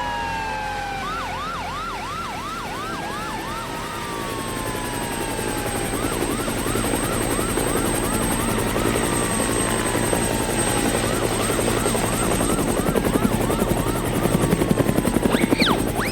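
Cartoon sound effects: a helicopter rotor chopping steadily and growing louder toward the end. Over it run repeated chirping sweeps, about three a second, and several slow falling whistles.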